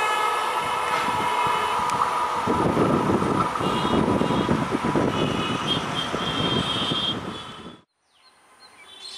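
Passenger train's coaches running away on the rails: a continuous rumble with steady high-pitched ringing tones from the wheels and rails. The rumble grows rougher about two and a half seconds in, and the sound fades out quickly just before eight seconds.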